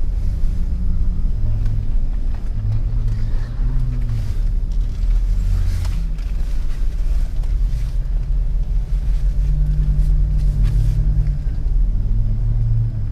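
Jeep Wrangler engine running at low speed while crawling over rough trail, its pitch rising and falling gently with the throttle. A few brief knocks come through from the rough ground.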